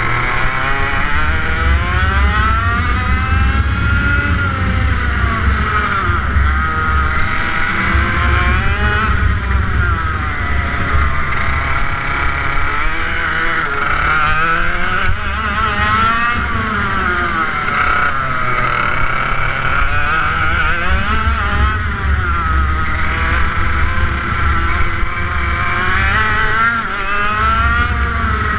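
TM K11B 100cc water-cooled two-stroke kart engine running hard on track, its pitch climbing under acceleration and dropping off for corners again and again, every few seconds.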